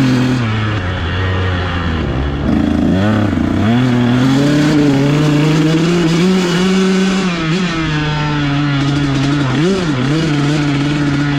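Dirt bike engine running under riding load, its pitch rising and falling with the throttle.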